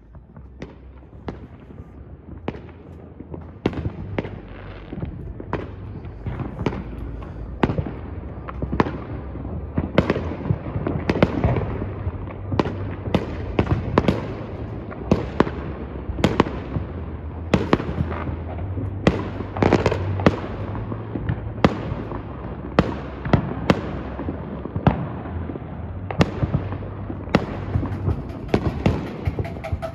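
Fireworks going off all around: a continual run of sharp, irregular bangs, several a second at times, getting busier and louder after the first few seconds.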